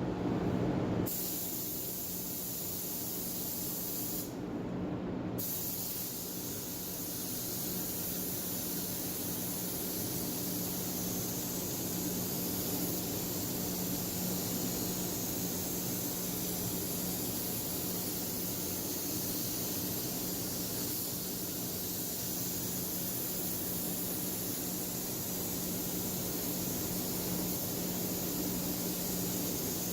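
DeVilbiss GTi spray gun hissing steadily as it lays the last coat of clear lacquer, over a steady low hum. The hiss thins briefly about four seconds in.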